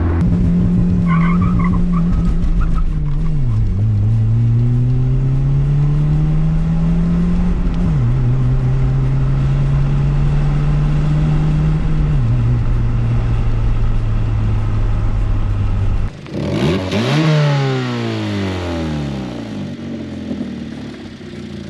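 Muffler-deleted 2005 Hyundai Tiburon pulling through the gears, the engine note dropping at three gear changes and holding or climbing between them. About two-thirds of the way in the sound changes abruptly to the car passing by, its pitch falling as it goes away and fades. The exhaust is fairly quiet for a muffler delete, which the hosts put down to a likely exhaust leak up front.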